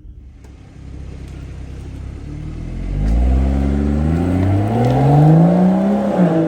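BMW M140i's B58 3.0-litre turbocharged inline-six and exhaust, running low and even, then revving up with the pitch climbing steadily for about three seconds. The revs drop sharply near the end.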